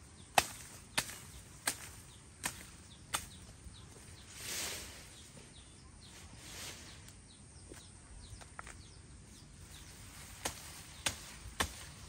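Chopping with a blade: a steady series of sharp strikes about one every 0.7 seconds, then two soft swishes, then three more strikes near the end.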